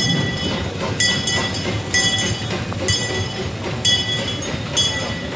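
Narrow-gauge 4-4-0 steam train underway on its track, with a low rumble and a metallic ringing that repeats about once a second.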